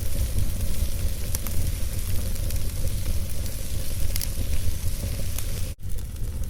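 Campfire crackling with scattered sharp pops, over a steady low rumble of wind. The sound cuts out for an instant near the end.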